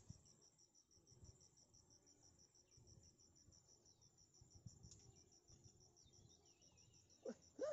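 A cricket chirping steadily, a faint high note pulsing several times a second over near silence.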